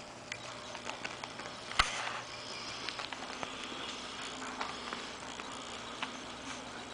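Morkie (Maltese-Yorkie) puppies scuffling as they play with their mother dog: soft rustling with many light scattered ticks, and one sharper tap about two seconds in.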